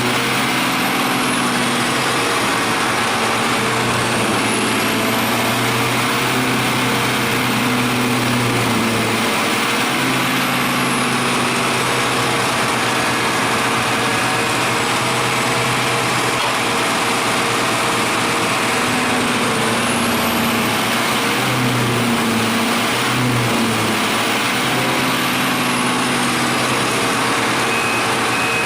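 Wood chipper's engine running steadily at a constant speed, over a dense machine noise.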